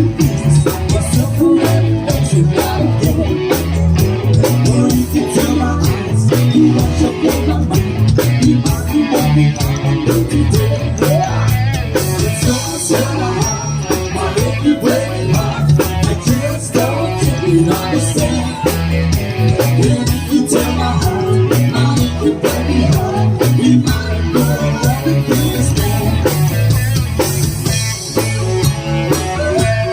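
Live rock band playing an upbeat rock-and-roll number, with drum kit, bass and electric guitar keeping a steady beat.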